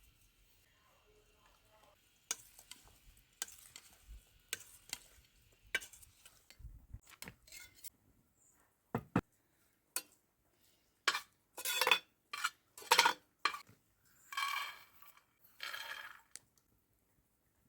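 Kitchenware being handled: after a quiet start, a run of irregular clinks and knocks of utensils against pots and dishes, then louder, longer scraping strokes in the last few seconds.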